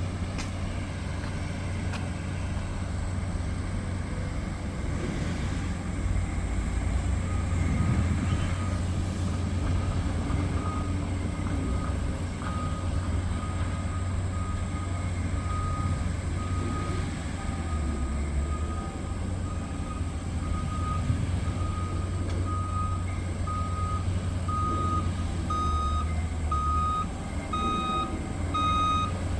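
Dump truck engine running with a steady low rumble, and its reversing alarm beeping about once a second from several seconds in, the beeps growing louder toward the end as the truck backs up.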